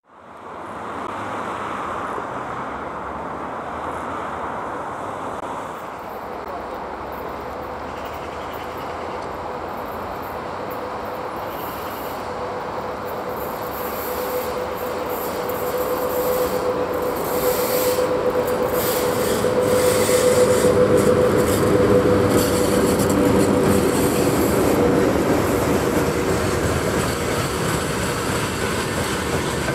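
VL80T electric locomotive hauling a freight train, rolling toward and past the listener. Steady rumble of wheels on rail that grows louder from about halfway, with a held high whine through the middle and rapid clicks of wheels over the rails as the locomotive and then the freight wagons go by.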